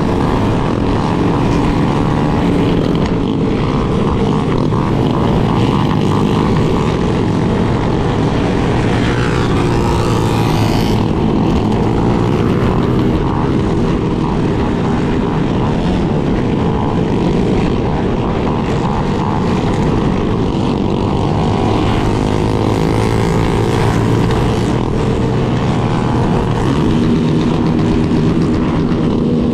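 Motorcycle engine running steadily at cruising speed, with wind rumbling on the helmet-mounted microphone and the drone of other bikes riding alongside.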